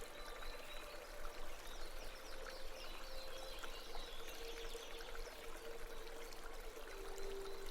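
Faint babbling brook, water trickling and splashing steadily, with faint held tones underneath.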